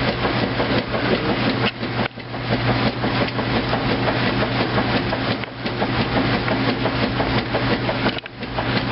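2008 Kenmore washing machine running in its rinse: a steady motor hum under mechanical churning, which dips briefly about every three seconds.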